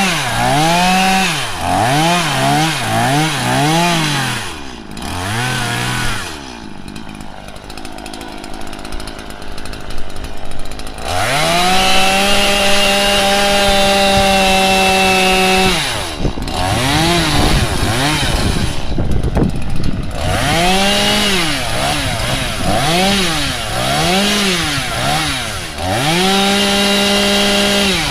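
Chainsaw revving in quick repeated throttle blips, with a few seconds of lower, rougher running before a long stretch held at high revs; near the end it goes back to quick revs and then holds high again.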